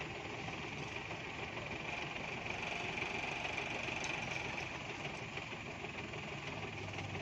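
Truck's diesel engine running steadily, with a constant high-pitched hiss over it.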